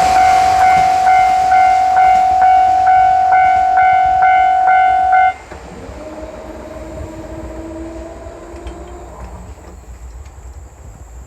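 Railway level-crossing warning bell ringing in a steady electronic ding about twice a second, cutting off abruptly about five seconds in as the crossing clears. A fainter, lower hum from the train follows for a few seconds and fades.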